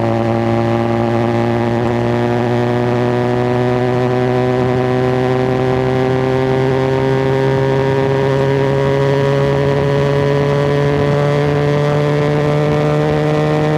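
QJ Motor SRK 400's parallel-twin engine and exhaust running steadily, its note rising slowly and evenly in pitch without a gear change.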